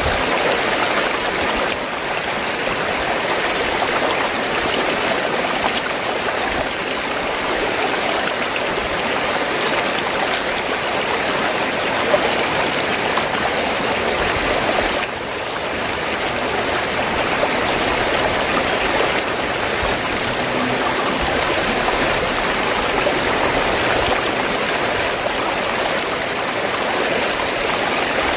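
Fast-flowing stream water gurgling and rushing steadily, with a brief dip in level about halfway through.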